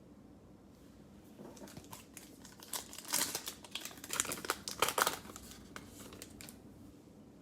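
Plastic cello-pack wrapper of trading cards being torn open and crinkled in the hands, an irregular crackling that is loudest in the middle.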